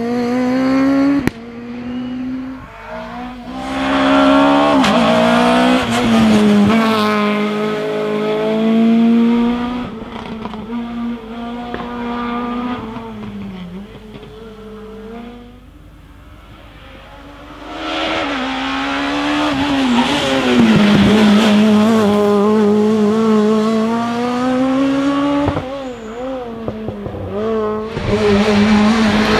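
Rally car engines at high revs on a special stage, the note climbing and dropping with gear changes and lifts for corners. It grows loud a few seconds in, falls back to a quieter stretch in the middle, then rises loud again.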